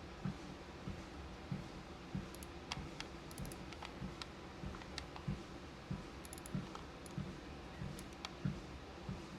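Footsteps on a walking-pad treadmill, a soft, even thud about every 0.6 seconds. Scattered sharp clicks from beads and small pieces being handled and sorted are heard over them.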